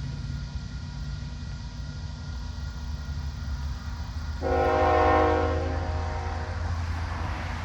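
Diesel freight locomotive rumbling past, with its air horn sounding one chord-like blast about four seconds in that lasts about two seconds and fades.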